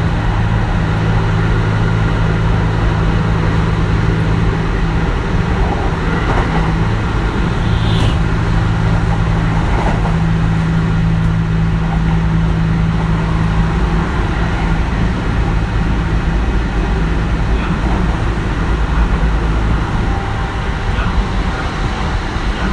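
Kintetsu 1420 series electric train heard from inside the car, running at a steady speed: a steady low rumble of wheels on rail with faint, even tones from its Mitsubishi GTO-VVVF drive, and no rising or falling pitch. A single sharp click about eight seconds in.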